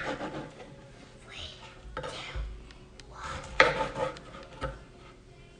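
Light clinks and knocks of utensils against a dish, a few separate clicks with the sharpest about three and a half seconds in.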